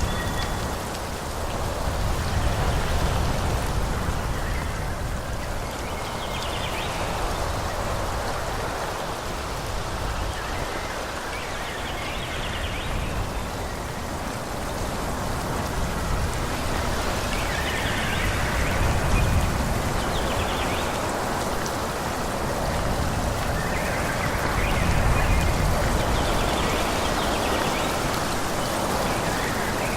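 Wind blowing through forest trees, the leaves rustling in a steady hiss that swells and eases in slow gusts every several seconds, with a low rumble of wind underneath.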